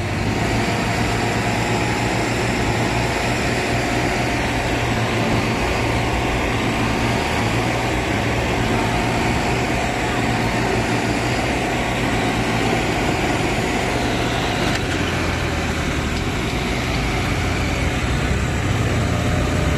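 Tractor diesel engine running hard and steadily under load, a continuous deep drone.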